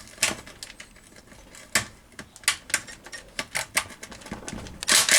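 Hand ratchet and socket working on rusted gearbox bracket bolts: irregular metallic clicks, coming faster in the middle, with a loud burst of rapid clicking just before the end.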